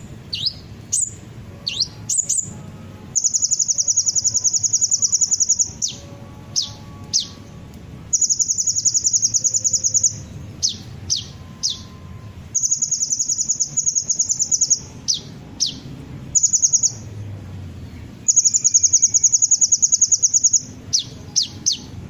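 Sunbird song played as a lure recording: sharp, high downslurred chips in quick runs, alternating with long, fast, high-pitched trills of two to three seconds each, four trills in all.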